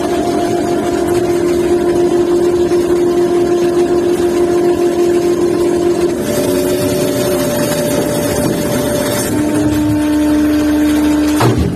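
Fishing-vessel machinery running with a steady mechanical hum. Its pitch shifts about six seconds in and again about nine seconds in, as the machine changes speed.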